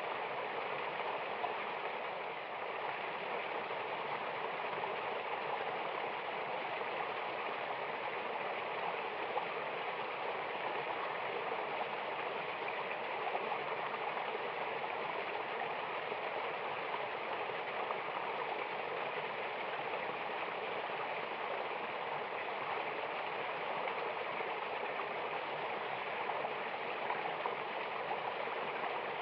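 Mountain waterfall and stream rushing steadily: an even wash of water noise with no breaks or changes.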